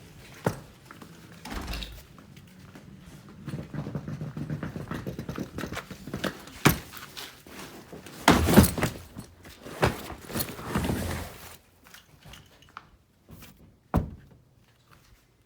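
Scattered thuds, knocks and clatter of gear being handled and loaded, with the loudest clatter about eight and a half seconds in and a sharp knock near the end.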